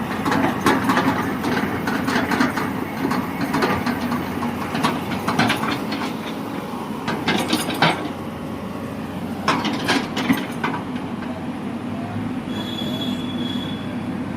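Construction machinery engine running steadily, with irregular clattering and metallic clanks in bursts.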